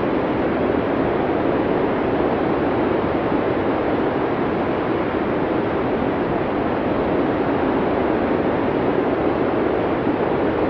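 Steady blizzard wind, an even rushing noise that stays level throughout, with no gusts, breaks or separate events.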